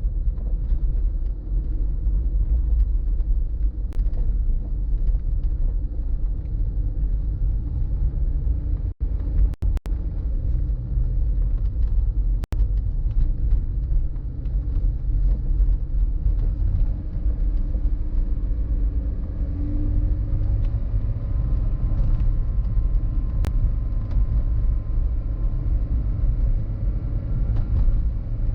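Steady low rumble of road and wind noise from a moving car. The sound cuts out for a split second a few times about a third of the way in.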